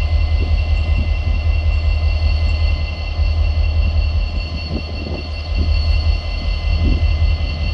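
EMD SD40-2 locomotive's 16-cylinder 645 two-stroke diesel running after start-up: a deep steady rumble with a thin steady high whine above it, dipping slightly in loudness midway.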